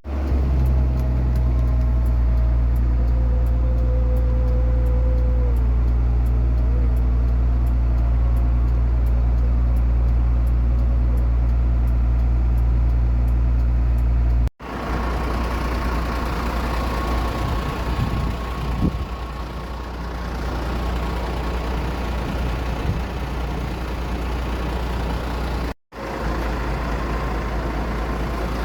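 Aircraft engines running steadily with a heavy low rumble and a few steady tones. The sound cuts off abruptly twice and changes character after the first cut, turning noisier with a steady high hum.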